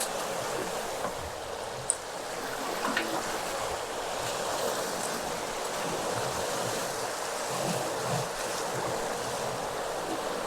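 Steady rush of water and wind aboard a J/105 sailboat sailing fast in strong wind and waves, with a single sharp click about two seconds in.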